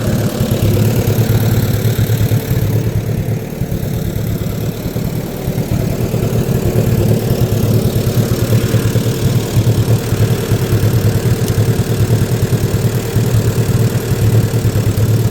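Lawn mower engine running steadily, its fast low firing pulse constant, dipping slightly in level a few seconds in.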